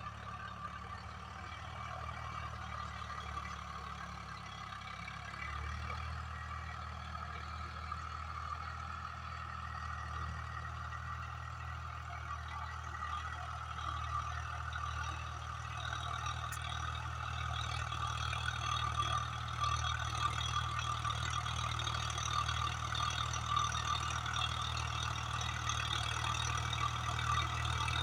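Swaraj 744 FE tractor's three-cylinder diesel engine running steadily under load with a steady higher whir above the engine note, slowly growing louder toward the end.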